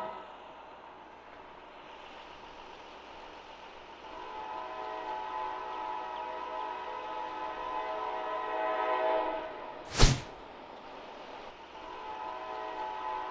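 Locomotive horn sounding at a distance as a chord of several steady notes: one long blast from about four seconds in, and another starting near the end. A single sharp knock about ten seconds in is louder than the horn.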